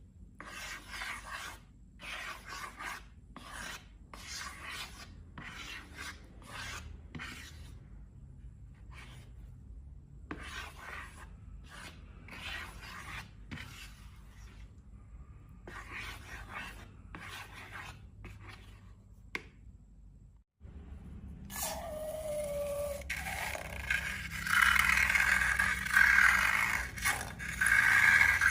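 Short rubbing, scraping strokes, about one or two a second with brief pauses. After a short break about two-thirds of the way through comes louder, continuous scraping with a brief falling squeak.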